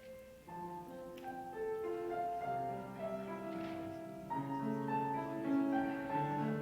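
Instrumental keyboard music starting: slow, held chords that begin softly and grow fuller.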